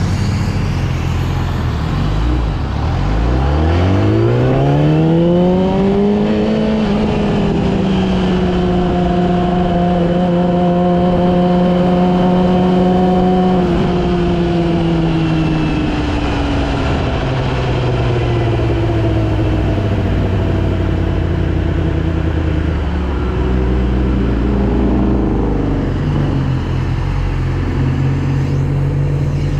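Yamaha R6 inline-four engine accelerating: its pitch rises steadily from low revs for about four seconds, then holds at a steady pitch for several seconds. About halfway through it eases off and runs on at lower revs.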